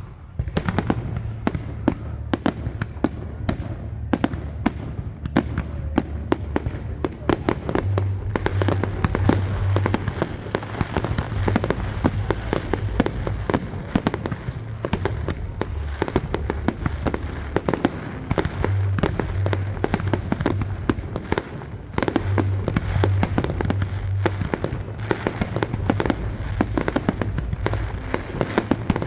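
Fireworks display going off: a dense, continuous stream of rapid bangs and crackles, many shells bursting close together.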